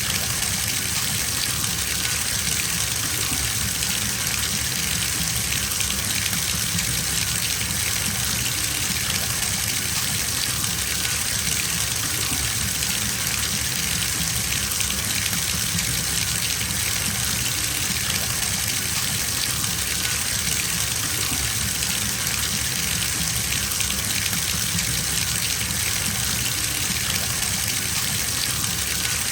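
Water running steadily from a bathtub tap into a filling tub: an even, unbroken rushing hiss.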